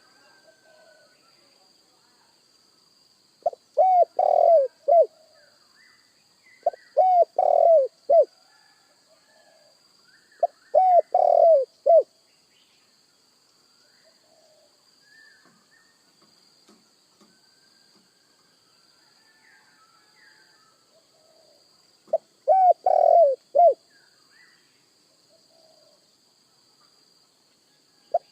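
Spotted dove (tekukur) cooing: four phrases of several coos each, the last coeach phrase set slightly apart, with a long pause of about ten seconds before the fourth phrase. Faint chirps of other small birds and a faint steady high hiss lie underneath.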